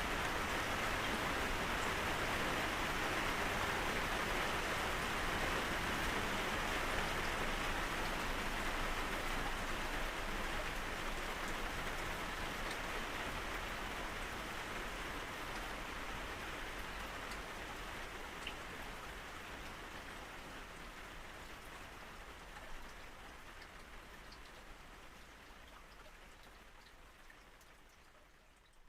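Steady rain falling, an even hiss with scattered drops pattering on a surface, fading out gradually over the last twenty seconds.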